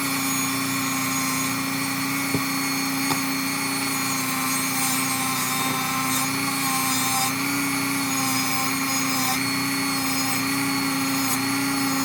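Dremel rotary tool running steadily at high speed, a worn-out bit scrubbing old spray paint and grease from between the teeth of an aluminium BMX chainring. Its pitch shifts slightly partway through, and two faint clicks come a few seconds in.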